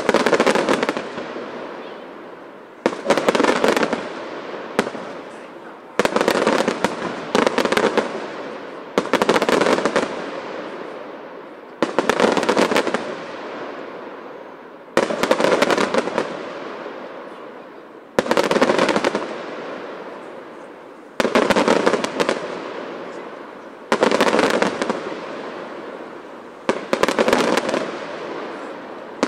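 Aerial firework shells bursting in a steady sequence: a cluster of sharp bangs and crackling about every three seconds, each fading out before the next, about ten in all.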